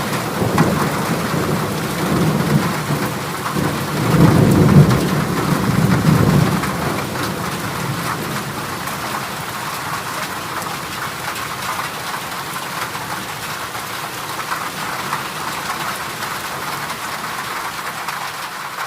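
Heavy rain pattering steadily on a corrugated zinc roof, with thunder rumbling low in the first seconds and again around four to six seconds in, then fading to steady rain.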